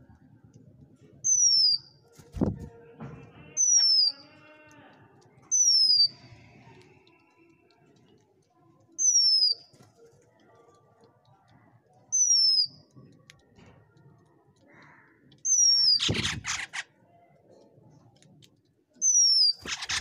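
A bird's short, high whistled note sliding down in pitch, repeated about every two to three seconds, with softer chattering calls and a few sharp taps in between.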